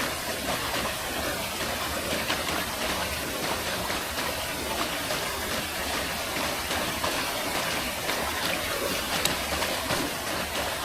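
Forest stream running: a steady rush of flowing water with many small splashing ticks.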